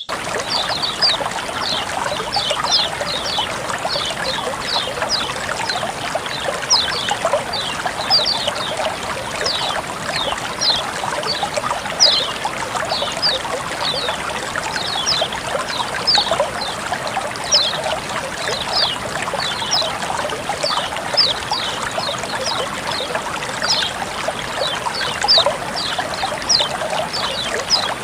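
Water flowing and trickling steadily, with a continuous splashing hiss and many small, irregular high-pitched plinks of drops.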